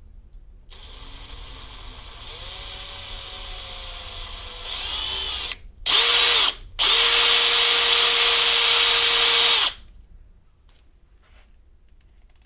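Small electric power tool motor spinning up with a rising whine, running steadily, then run hard in two loud bursts with a harsh hiss over a steady hum before cutting off suddenly. A few faint clicks follow.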